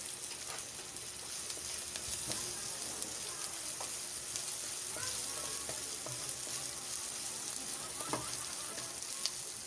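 Chopped garlic, onion and ginger sizzling in hot oil in a metal wok, with a steady frying hiss. A wooden spatula makes a few light scrapes and taps as it stirs them.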